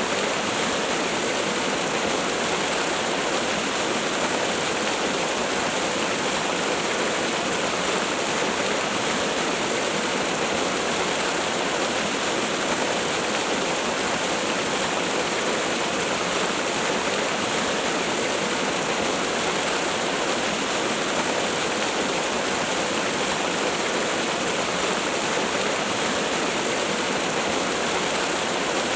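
Waterfall: a steady, unbroken rush of falling water, more hiss than deep rumble.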